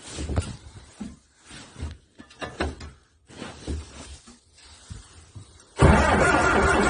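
A few scattered clunks and knocks, then about six seconds in a loud, steady mechanical running starts abruptly. This is the electric starter and pony (starting) engine of a diesel being set going.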